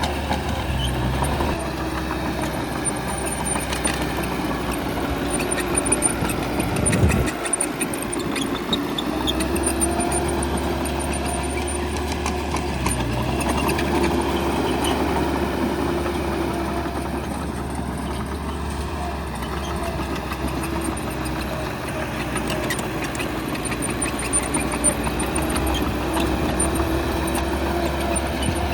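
Bulldozer's diesel engine running steadily, its pitch rising and falling as it works. A heavy low thump comes about seven seconds in.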